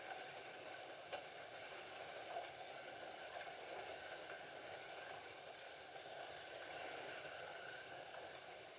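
Scalextric slot cars lapping the plastic track: a faint, steady whir of small electric motors and rolling wheels, with a single click about a second in.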